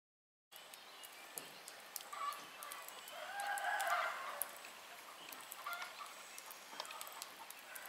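Silent for the first half second, then faint outdoor ambience with a bird calling, loudest from about three to four and a half seconds in, and scattered faint clicks.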